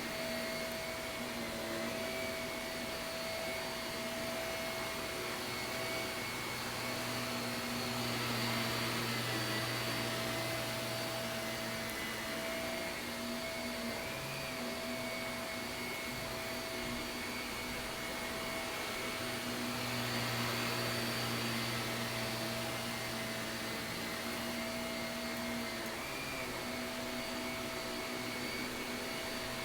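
Shark vacuum cleaner running steadily while vacuuming carpet, a constant motor whine with a rush of air. Its level swells briefly twice, about a third of the way in and again about two-thirds in.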